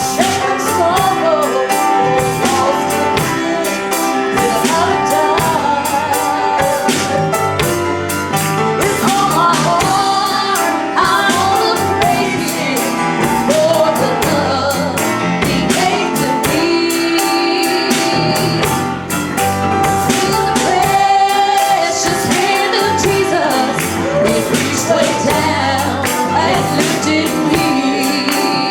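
A woman singing a gospel song with a live band accompanying her, with a steady beat.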